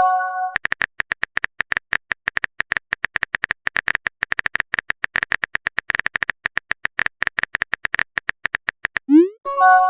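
Text-typing blip sound effect: a fast, even run of short clicks, about ten a second. Near the end it gives way to a rising swoop and a brief chime of several held tones.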